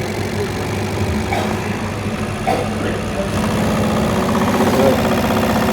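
Mercedes-Benz OM615 four-cylinder diesel engine running steadily during an injection pump test, getting a little louder about three seconds in.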